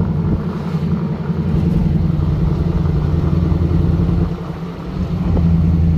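LS V8 engine of a Jeep TJ running steadily under way, with road noise. About four and a half seconds in it dips briefly, then comes back up.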